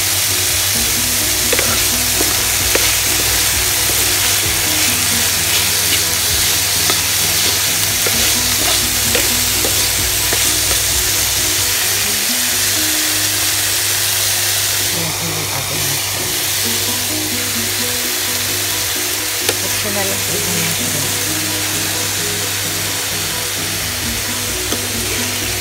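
Chicken and mixed vegetables sizzling steadily in hot oil in a frying pan, stirred and turned with a spatula that gives light scraping clicks against the pan.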